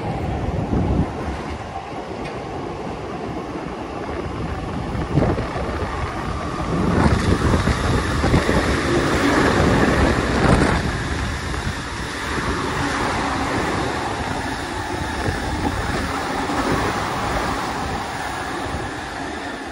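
Electric trains running on the multi-track railway, a continuous rumble and rattle of wheels on rails that grows louder about seven seconds in and eases off after about eleven seconds.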